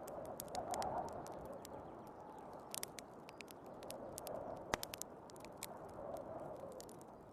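Wood fire crackling in a fireplace, with many small sharp pops and one louder pop a little before five seconds in, over the steady rushing of a heavy snowstorm's wind that swells in gusts.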